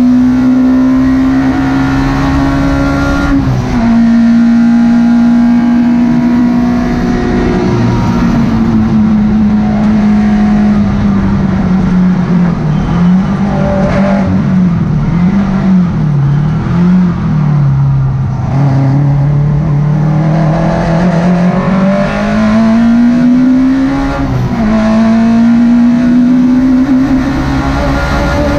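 Citroën Saxo race car's four-cylinder engine heard from inside the stripped cockpit at racing speed. The revs hold high, drop sharply at an upshift a few seconds in, sag and waver low through the middle, then climb steadily to another upshift near the end and build again.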